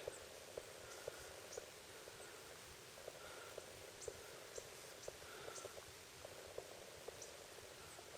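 Faint animal calls: short low clicks repeating irregularly about twice a second, with a few softer, higher chirps among them.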